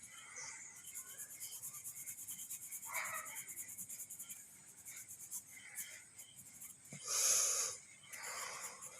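Shading pencil scratching on drawing paper as feathers are shaded in, first as a quick run of short, even back-and-forth strokes, then two longer, louder strokes near the end.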